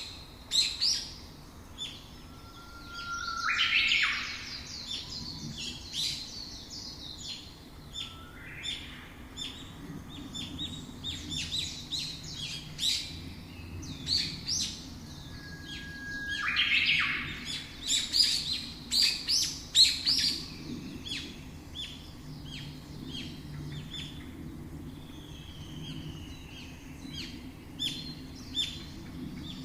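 Songbirds chirping and calling, with many short chirps throughout; twice a call starts as a short held note and breaks into a fast, loud burst.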